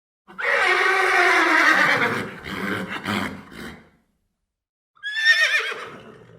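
Horse whinnying twice: a long whinny that falls in pitch and breaks up into a fluttering tail, then a shorter, wavering one about five seconds in.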